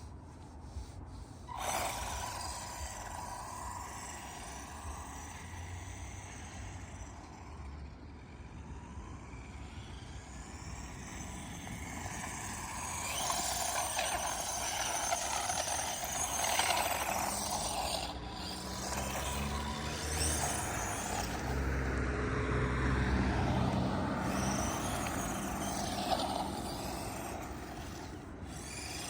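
Small electric motor of a Redcat Volcano 16 1/16-scale RC truck whining up and down in pitch as it accelerates and slows on full-throttle runs, with tyre and wind noise. The runs are loudest in the second half.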